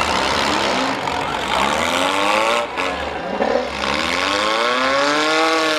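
Demolition derby cars' engines revving hard several times, each rev rising in pitch and then holding, over the steady din of the other cars running in the arena.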